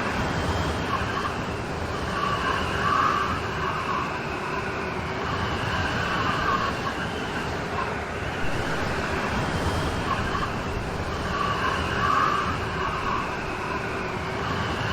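Steady rain storm, an even hiss of falling rain, swelling a little about every nine seconds.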